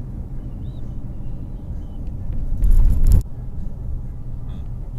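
Steady low rumble like a road vehicle running. A loud rushing noise swells about two and a half seconds in and cuts off suddenly just after three seconds.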